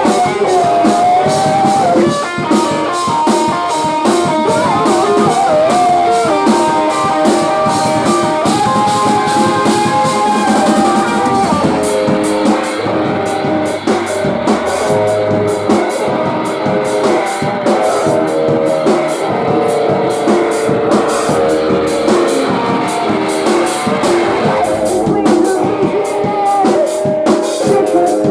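Post-hardcore band playing live: melodic electric guitar lines over a full drum kit. About twelve seconds in, the constant cymbal wash gives way to separate hits.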